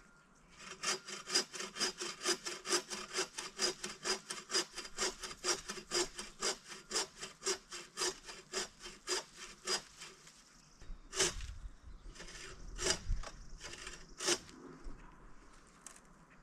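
Hand saw cutting through firewood, a fast, even back-and-forth of about four strokes a second for roughly nine seconds. After a brief pause there are a few slower, heavier strokes with dull thuds.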